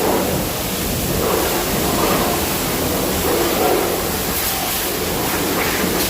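High-pressure water jet spraying a car's underbody: a steady, continuous hiss of spray.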